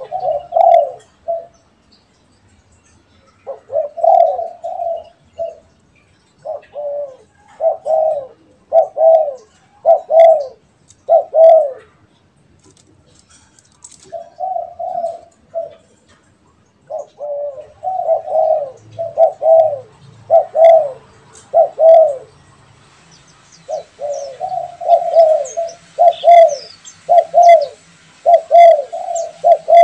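Sunda collared dove (derkuku) cooing: runs of several arched coos, each run a few seconds long, with short pauses between runs. Faint high chirps of small birds join in during the last third.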